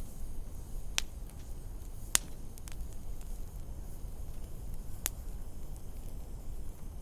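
Wood fire crackling in a fireplace: three sharp pops about 1, 2 and 5 seconds in, the one at 2 seconds the loudest, with fainter ticks between, over a low steady rumble.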